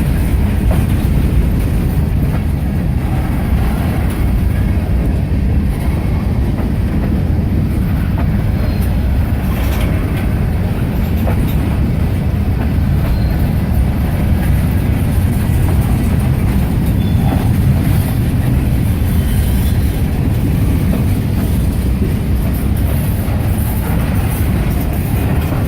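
Slow CSX manifest freight train rolling past, a steady low rumble of the cars' wheels on the rails with a few faint clicks.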